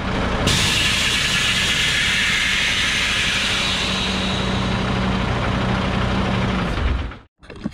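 Motor vehicle engine running steadily under a loud hiss, cutting off abruptly near the end.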